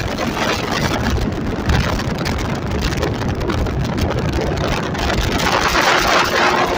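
Motorcycle running on the move, with wind noise on the microphone. Near the end a steady engine hum comes through as the bike settles toward an idle.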